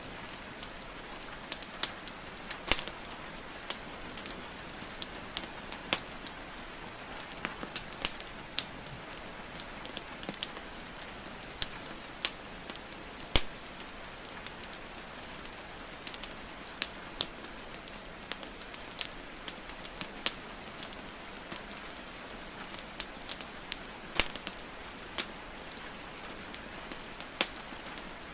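Wood fire crackling and popping with sharp, irregular snaps, several a second, over the steady hiss of rain falling.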